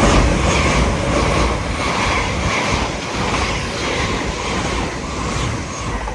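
LNER Class 801 Azuma electric express train passing through the station at speed: a loud rush of wheel and air noise with a regular beat from the wheels, loudest at the start and easing off slightly.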